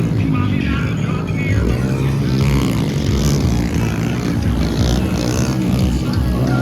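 Small-displacement motorcycle engines of the POP 100 to 110 class racing, with several engine notes overlapping and revving up and down.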